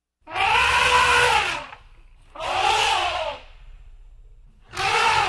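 Elephant trumpeting: three loud calls of about a second each, every one rising and then falling in pitch.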